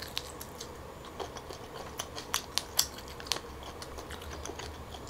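Close-up chewing of a steamed tiger prawn: faint scattered wet clicks and crackles, with a run of sharper clicks in quick succession in the middle.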